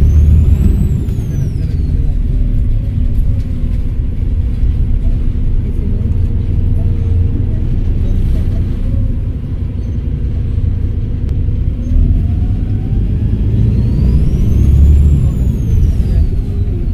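Volvo B7RLE bus's six-cylinder diesel engine running with a heavy low rumble, its turbocharger whistling in a high pitch that rises and falls, first near the start and again for a few seconds near the end as it spools up and down. A lower whine climbs in pitch just before the second whistle.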